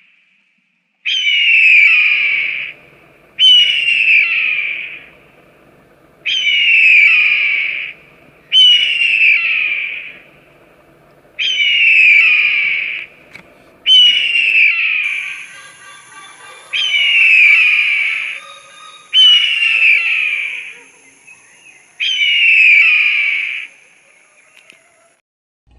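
A bird calling over and over: ten matching calls, each about a second and a half long and falling in pitch, at an even pace of one every two seconds or so.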